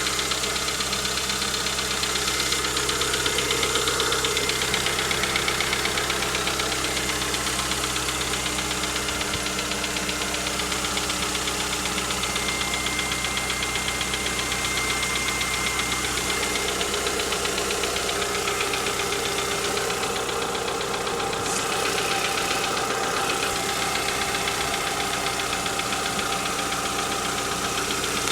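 Škoda Octavia 1.6 engine running steadily with a rapid, even ticking knock from its valvetrain: the sound of noisy hydraulic lifters (lash adjusters).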